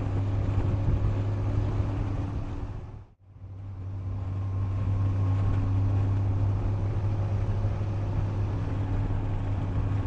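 Yamaha FJR sport-tourer's inline-four engine running at a steady cruising speed with wind rush on the road. The sound fades out to near silence about three seconds in and comes straight back.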